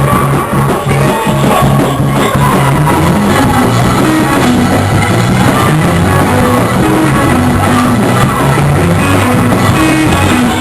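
Loud live gospel band playing an up-tempo praise break, with a bass line walking through changing notes and a dense wash of drums, guitar and keyboard.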